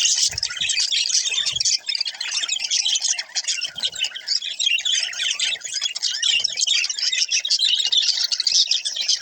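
Budgerigars chattering and warbling without a break, a dense stream of rapid chirps and squawks, with a few soft low thumps.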